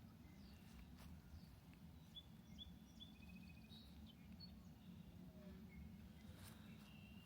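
Faint songbirds chirping and calling in scattered short notes, with one brief rapid trill about three seconds in, over a low steady rumble.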